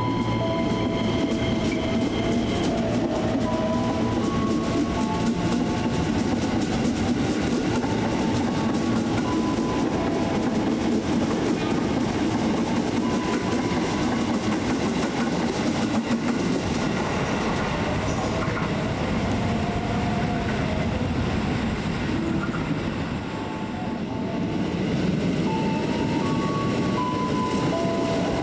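Electric commuter train running along the track past the platform: a continuous rumble of steel wheels on rails with clickety-clack over the rail joints, and short steady whining tones coming and going above it. The sound dips briefly near the end, then another train's running noise takes over.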